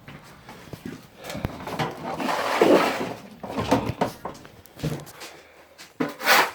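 Irregular knocks, scraping and rustling of demolition debris being handled, with a sharp knock about a second in, a longer scrape a couple of seconds in, and a loud clatter near the end.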